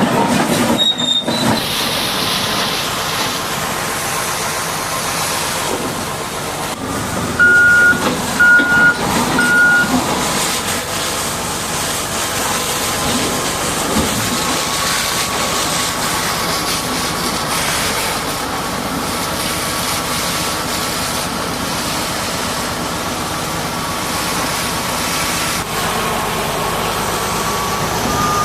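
Heavy earthmoving equipment running steadily, with a backup alarm beeping three times about eight seconds in. A faint whine holds steady through the second half and creeps up in pitch near the end.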